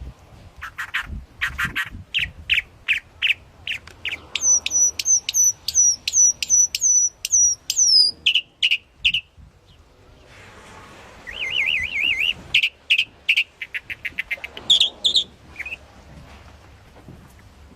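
A songbird singing a varied song in phrases of clear whistled notes: a fast run of high repeated notes, a pause of about two seconds midway, then a warbling trill and further notes.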